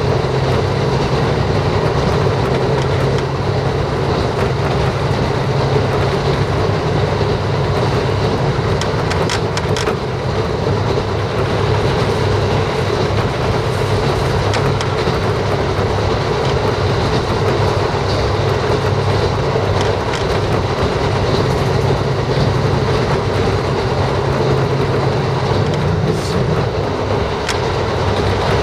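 Diesel railcar running at speed, heard from inside the passenger cabin: a steady low engine drone and wheel rolling noise, with a few light clicks from the wheels on the rails.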